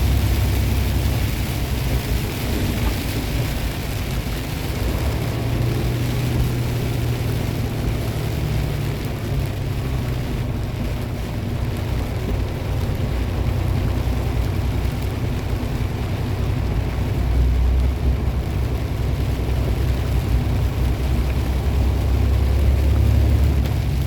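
Truck's diesel engine running as it drives, heard inside the cab, with steady road and rain hiss over it. The engine's low drone rises and falls a little as the speed changes.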